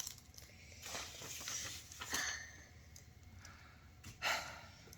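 Paper and sticky tape being handled: soft rustling and crinkling, with short sharper sounds about two seconds in and again near the end.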